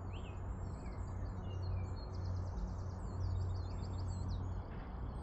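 Small birds chirping and singing quick, high, repeated trills, over a steady low hum.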